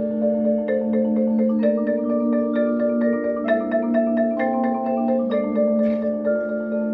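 Percussion ensemble playing mallet instruments with a marimba-like sound: many quick struck notes over held tones that change chord every second or two.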